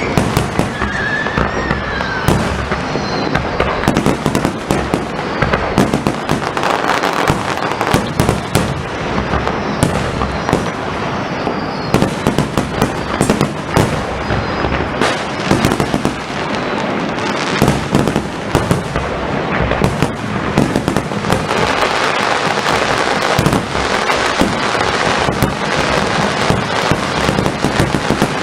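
Firework display: a dense, continuous barrage of aerial shell bangs and crackling, many reports overlapping with no pause.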